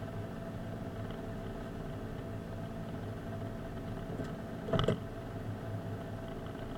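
Car engine running steadily with a low, even hum. A single short knock about five seconds in is the loudest sound.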